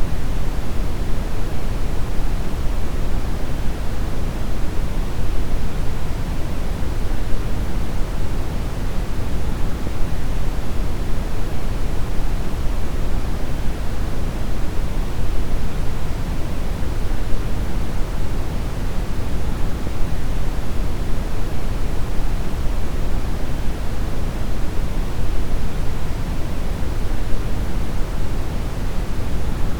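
Steady brown noise: a deep, even rumbling hiss weighted heavily toward the low end, with no change or events.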